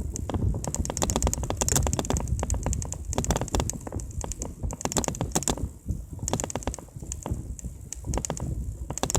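Mountain bike rolling over rough pavement, with fast, irregular rattling clicks over a steady low rumble.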